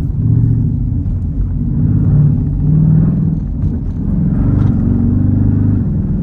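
Jeep Grand Cherokee Trackhawk's 6.2-litre V8 running without its supercharger while driving, the engine note rising and falling a few times with the throttle.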